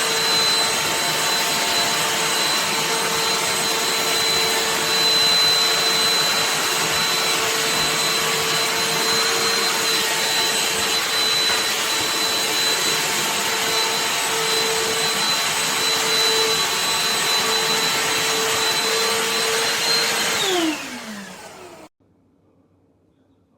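BLACK+DECKER 20V dustbuster cordless handheld vacuum running at a steady pitch, a motor whine over the hiss of rushing air. Near the end it is switched off and the whine falls in pitch as the motor spins down to a stop.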